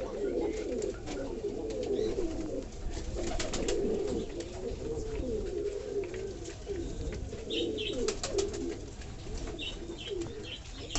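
Several pigeons cooing continuously, with a few sharp clicks and some brief high chirps.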